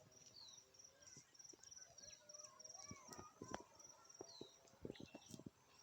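Very quiet outdoor ambience: a faint high-pitched chirp repeating evenly several times a second, like an insect, with a few faint short bird calls and soft scattered knocks.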